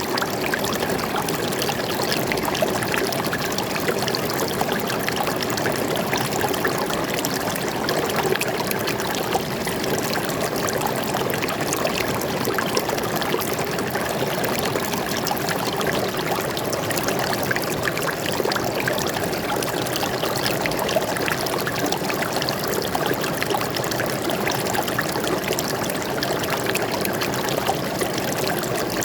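Small stream of water flowing and splashing steadily over rocks, a continuous trickling, burbling rush.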